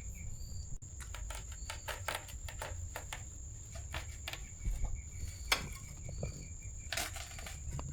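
Steady high-pitched insect drone with short repeated chirps, under irregular clicks and light knocks, the sharpest about five and a half and seven seconds in.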